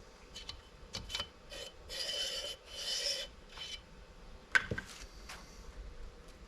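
Piston ring being worked down into the cylinder bore to square it: a few short metal-on-metal scrapes with faint ringing, scattered light clicks, and one sharp click about four and a half seconds in.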